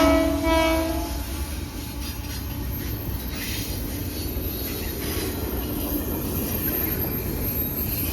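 Train horn sounding a chord that cuts off about a second in, followed by the steady low rumble of the train rolling past on the rails.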